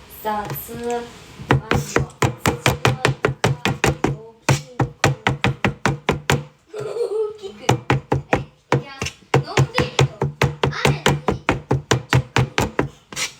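Kitchen knife chopping chives on a cutting board in fast, even strokes, about five a second, with short pauses near four, seven and nine seconds in.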